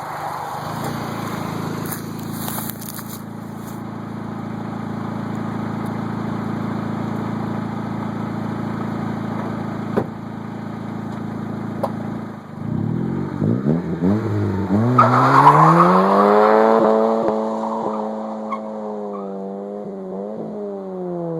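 1999 Honda Civic's four-cylinder engine during a burnout. It drones steadily at first, then revs sharply up a little past halfway and holds near the top with quick small dips as it bounces off the rev limiter while a front tire spins. The revs fall away near the end.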